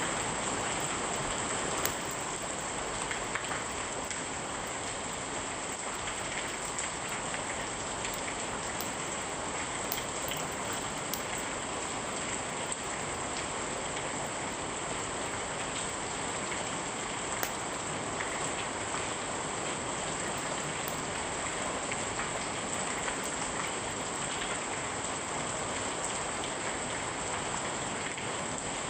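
Steady rain, an even hiss with scattered sharp ticks.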